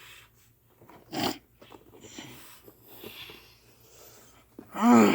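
A person's voice making creature noises: a short snort-like burst about a second in, faint rasping sounds, then a loud pitched cry near the end.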